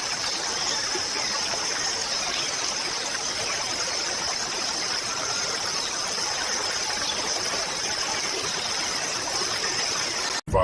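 Flowing river water running steadily, with a constant high-pitched hiss over it.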